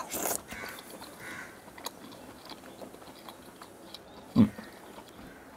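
A person eating chicken kosha thigh meat with the fingers: a short slurp as the piece goes into the mouth, then soft, wet chewing with small mouth clicks. A brief low hum of the voice comes about four seconds in.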